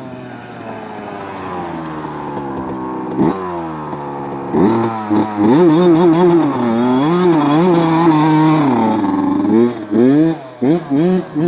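Honda CR80 two-stroke motocross bike being ridden, its revs rising and falling as the throttle is worked. It starts fainter and grows loud about four and a half seconds in, with short stabs of throttle near the end.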